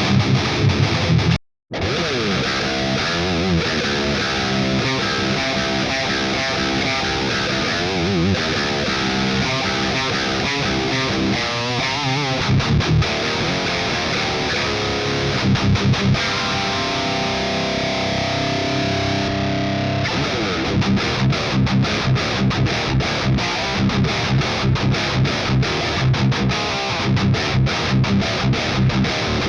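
High-gain distorted electric guitar playing metal riffs through an amp tone modelled on the Peavey 5150. There is a brief cut-out about a second and a half in, and a run of short repeated chugs through the last third.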